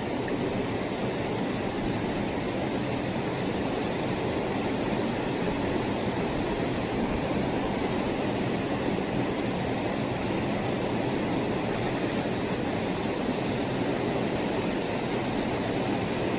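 Mountain stream water rushing steadily over rocks, a constant even wash.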